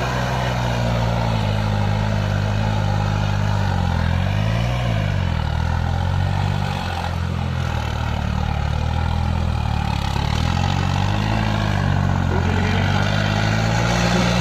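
Two diesel tractor engines running together at different speeds. Their pitches drift up and down and cross each other as the revs change.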